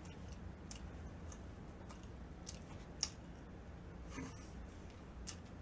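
A person chewing a mouthful of food: faint, scattered soft wet mouth clicks, one sharper click about three seconds in, over a low steady hum.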